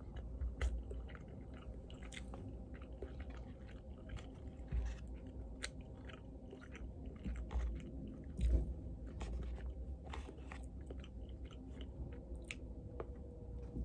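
A person chewing a mouthful of fish and rice, with soft, irregular smacking and clicking sounds.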